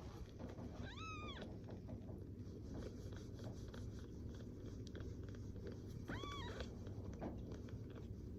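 Newborn kitten mewing twice, each a short high call that rises and falls, over a low steady background noise.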